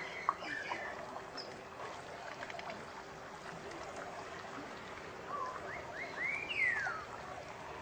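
A bird calling: a few short upward-sliding whistles, then one longer whistle that rises and slides down, about five to seven seconds in, over a steady hiss.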